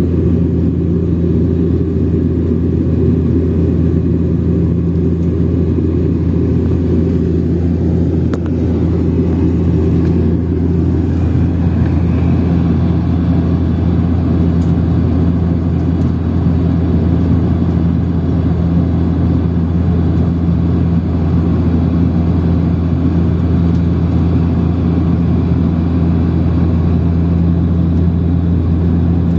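Engine drone heard inside an airliner's cabin: a loud, steady low hum with a second steady tone above it and a rushing noise that eases a little after about ten seconds.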